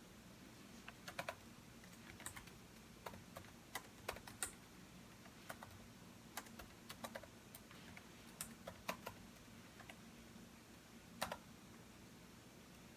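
Computer keyboard being typed on in short, irregular runs of keystrokes with pauses between, as an essay is written. The keystrokes are faint, with one louder key strike near the end.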